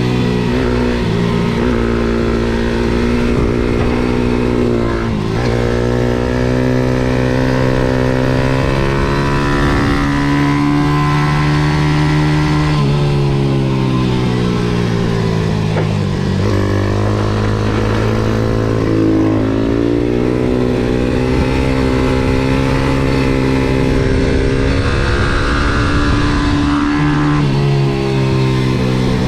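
MRF 140 SM pit bike's 140 cc single-cylinder four-stroke engine, heard onboard at racing pace: the revs climb under throttle and drop sharply several times with gear changes and braking for corners, then climb again.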